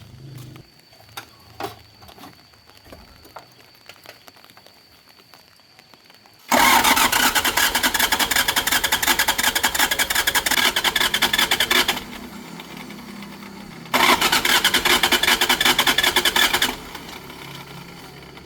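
An engine being cranked over, in two bursts of about five and three seconds, each stopping abruptly.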